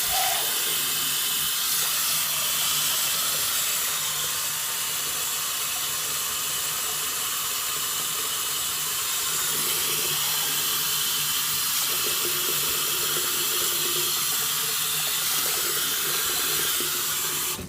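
Steady rushing hiss, like running water, with a faint low hum beneath. It holds at an even level, then cuts off abruptly at the end.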